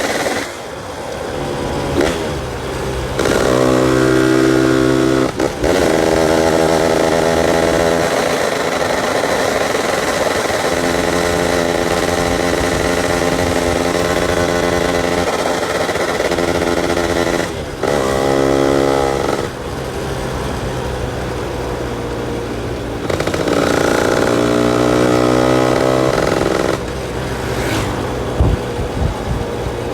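Yamaha F1ZR's single-cylinder two-stroke engine running at light throttle, with its growling, snoring exhaust note. The engine holds a steady note for stretches of a few seconds, broken by several short dips where the throttle eases off.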